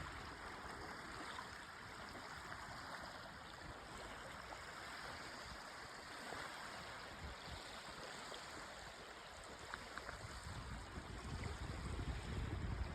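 Rushing creek water, a steady faint rush, with a low rumble building near the end.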